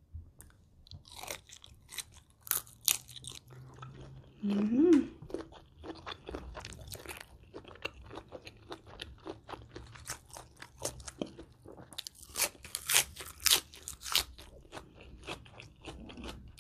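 Close-miked crunching and chewing of a shrimp salad with crisp iceberg lettuce leaves, eaten by hand, in a stream of crackly bites with the densest crunching near the start and again about twelve to fourteen seconds in. About five seconds in there is a brief hummed 'mm'.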